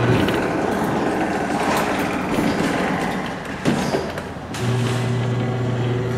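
Claw machine running a play: a steady mechanical whirr of the claw mechanism, a short knock about three and a half seconds in, and the machine's steady hum returning near the end.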